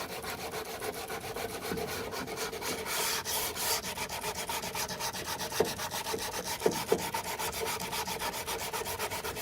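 Hand sanding cured body filler on a car door sill with 180-grit Abranet mesh abrasive, in quick, even back-and-forth strokes that cut back the guide coat and the 80-grit scratches. A few short squeaks come through about halfway.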